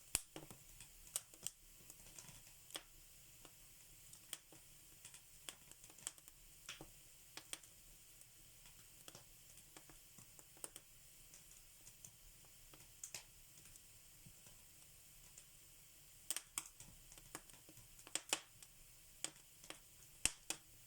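Wood fire crackling in a fireplace: irregular sharp pops and snaps over a faint steady hiss, coming more often and louder near the end.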